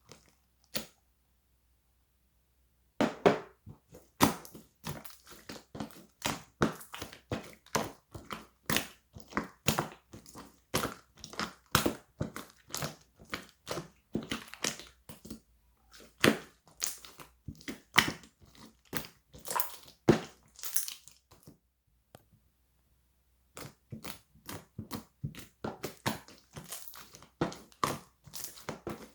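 Clear slime being squeezed and pressed by hand, making a rapid run of short clicks and pops. It starts about three seconds in, stops briefly near the end, then resumes.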